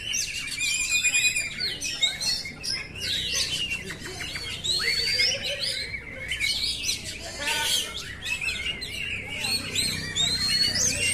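Oriental magpie-robin (kacer) singing a continuous, varied song of loud whistles, rapid trills and sliding notes with hardly a pause.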